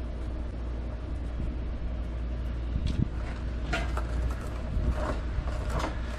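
Short, irregular clicks and scrapes of hands working a wiring connector onto the transfer case indicator switch, clustered in the second half, over a steady low hum.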